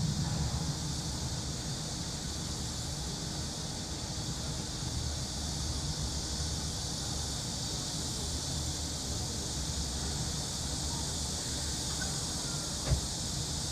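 Cicadas buzzing in a steady chorus, over a low rumble of city traffic that is louder at first. There is one sharp click near the end.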